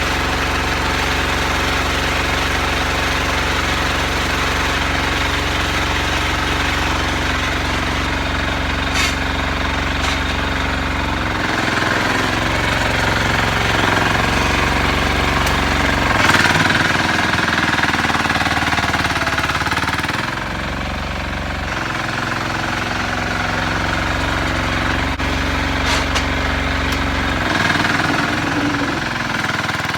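Repowered Sears 8XL garden tractor running continuously, its low note dropping and coming back several times as the load changes, with a few sharp clicks.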